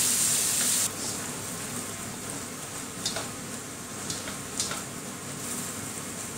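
Ground garlic, shallot and chilli paste sizzling in hot oil in a wok, being fried until fragrant and stirred with a spatula. The loud sizzle drops suddenly about a second in to a quieter, steady frying, with a few light clicks of the spatula against the wok.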